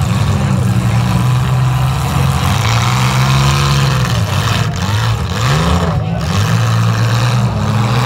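Demolition derby compact cars' engines running hard and revving, loud, their pitch rising and falling over and over as the cars push and ram one another.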